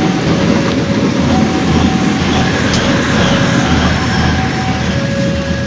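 A passenger train runs past on the line, a steady loud rumble of wheels on rail. Through it sounds a two-note tone that alternates about every second.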